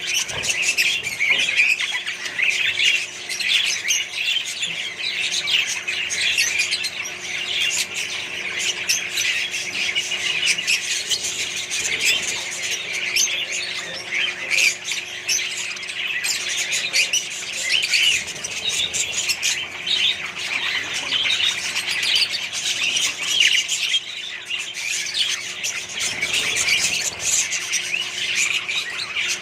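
A flock of budgerigars and other small parrots chattering and squawking nonstop, many short calls overlapping.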